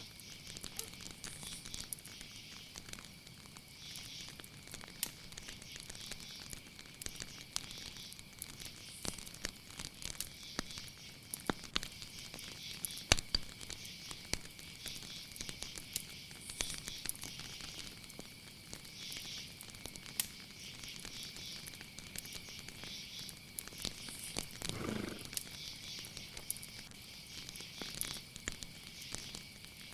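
Night insects chirring: one steady high-pitched tone with rhythmic pulsing calls above it, over frequent small crackling clicks. A brief low call comes about 25 seconds in.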